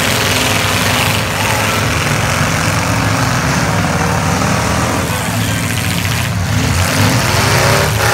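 Several V8 demolition derby car engines running loudly together in a steady drone, with some revving.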